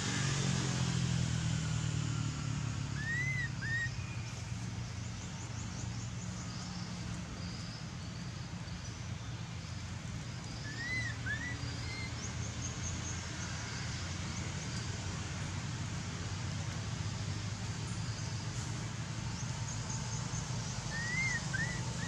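Forest ambience: a steady low hum underneath, with a bird whistling a short rising-and-falling two-note call three times, about eight seconds apart, and faint high chirps.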